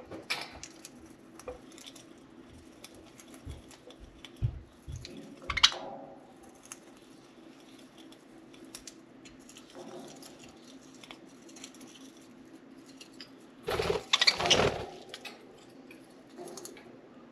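Budgies chewing and shredding a soft-wood toy: scattered small clicks and crunches of beaks on wood, with a louder burst of rattling about fourteen seconds in.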